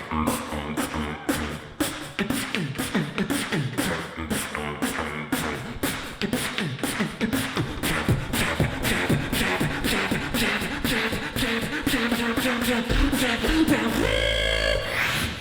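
Live human beatboxing: a fast, dense rhythm of vocal kick, snare and hi-hat sounds. Near the end it turns into a wavering sung tone over a deep bass hum.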